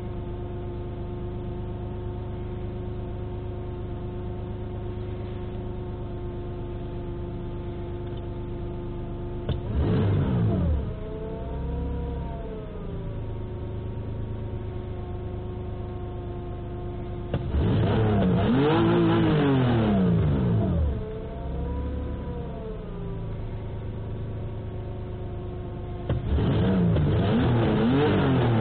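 Toyota 3VZ-FE 3.0 V6 engine, freshly rebuilt after a major overhaul, idling steadily and then revved three times: a short blip about ten seconds in, a longer rise and fall past the middle, and another rev near the end.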